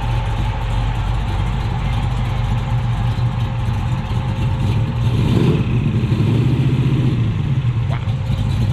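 Car engine running at low speed close by, a steady low rumble that swells louder from about five seconds in.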